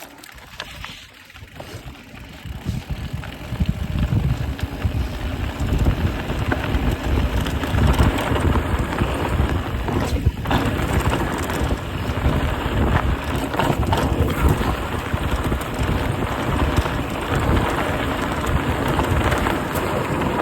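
A vehicle driving over rutted, rain-soaked ground: a steady, noisy rumble that grows louder over the first few seconds.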